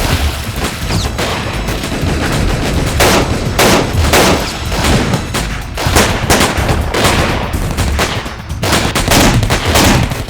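Gunfire in a shootout: rapid shots from several guns, single shots mixed with automatic bursts, with no let-up.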